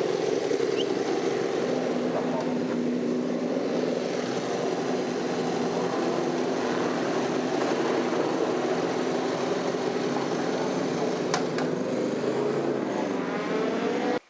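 A steady engine drone with a low hum and a faint rushing noise over it, its pitch sinking slightly near the end before it cuts off abruptly.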